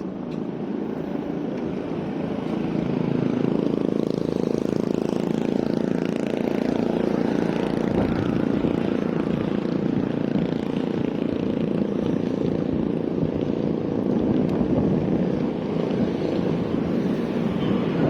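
Steady rumble of road traffic, even and unbroken, with no single event standing out.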